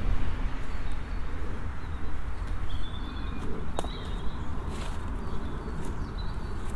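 Outdoor ambience of a reservoir path: a steady low rumble and hiss, with a few short high bird calls about two to four seconds in and scattered light clicks.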